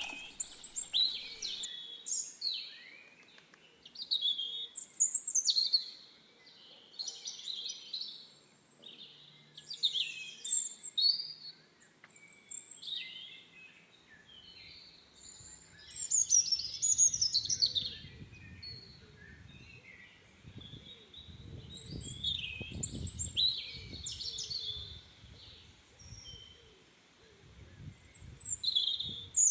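Birds singing: short, high chirping phrases that repeat every second or two. A low rumble joins them about halfway through.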